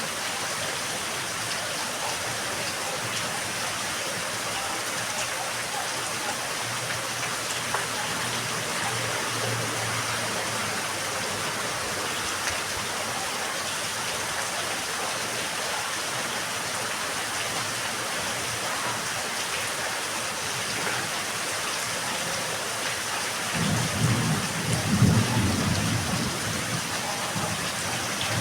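Steady rain falling on a yard, an even hiss of drops. About three-quarters of the way in, a low rumble of thunder rolls in and grows louder.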